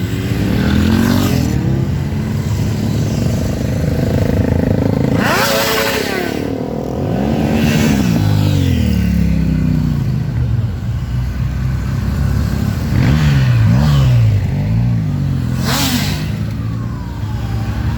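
Several motorcycles riding past in a group, engines repeatedly revving up and easing off. A siren begins to wail near the end.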